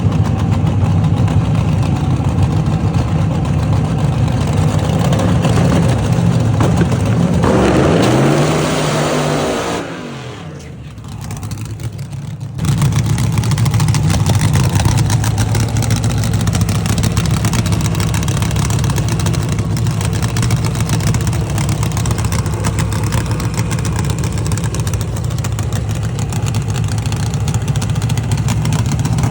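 A vehicle engine running steadily. About eight seconds in it swells, then falls in pitch and drops away. A couple of seconds later the steady engine sound comes back abruptly.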